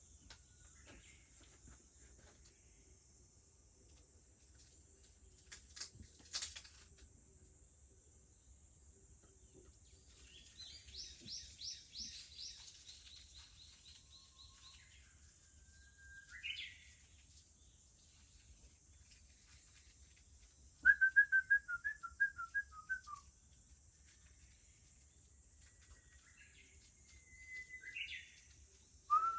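A Japanese bush warbler sings whistled phrases: a held note that turns upward, and a loud run of quick repeated notes in the middle. Cicadas drone steadily behind it.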